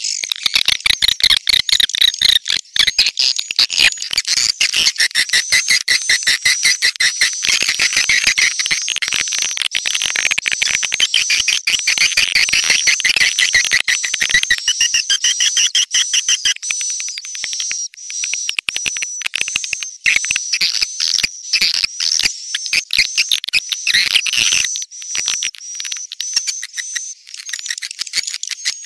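Swiftlet lure recording: a dense chorus of edible-nest swiftlet chirps and twitters, rapid clicking notes under a continuous high wavering whistle, thinning somewhat about halfway through.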